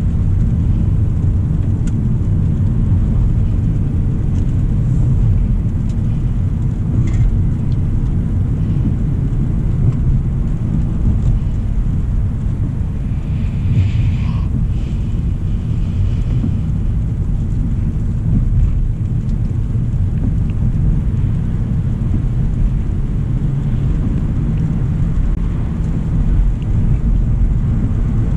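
Steady low road rumble of a 2025 Hyundai Elantra SEL driving, tyre and engine noise, with a brief hiss about halfway through.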